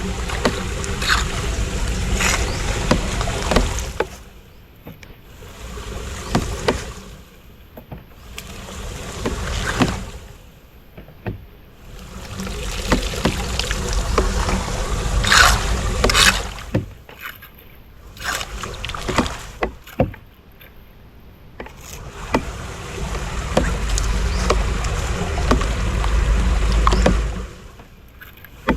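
Floodwater splashing and sloshing in bursts of a few seconds with quieter gaps between, with a low rumble and scattered knocks.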